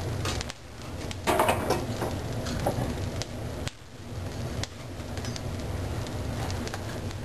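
Wood fire crackling in a fireplace, with scattered sharp pops and a few knocks and clatters. The loudest clatter comes about a second in.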